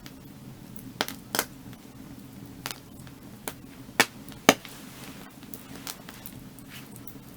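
Burning firewood crackling, with scattered sharp pops: two about a second in, and the two loudest around four seconds in, half a second apart, over a steady low rumble.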